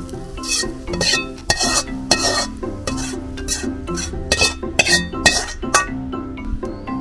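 A metal utensil scraping and clanking against a Chinese wok while stir-frying, about a dozen irregular strokes that stop near the end, over background music.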